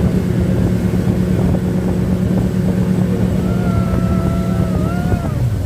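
Boat motor running steadily under way, with wind and water noise, its note dropping about five seconds in as it throttles down. A long held tone sounds over it shortly before the drop.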